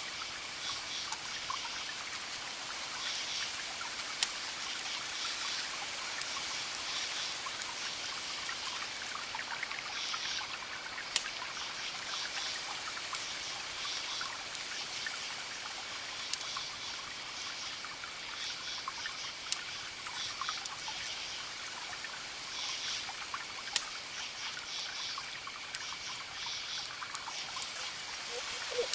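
Campfire crackling with a dozen or so sharp pops, over a steady rush of distant surf, with crickets chirping throughout.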